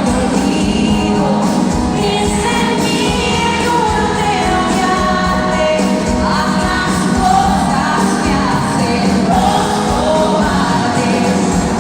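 Pop song with women singing the melody over a full backing band.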